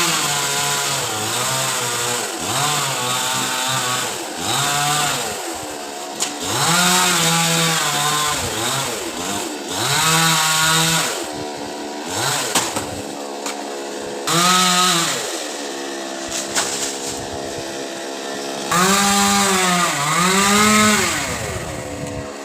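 Two-stroke chainsaw cutting coconut palm wood, the engine revving up to full throttle for a second or two at a time, then dropping back to a lower speed, over and over.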